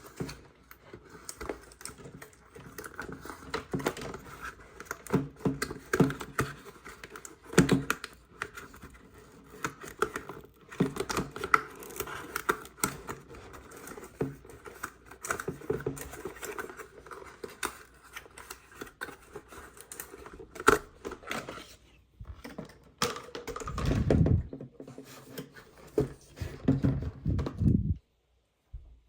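Hands handling a toy and its packaging: irregular rustling, crinkling, scratching and clicking, with heavier low bumps near the end before the sound stops abruptly.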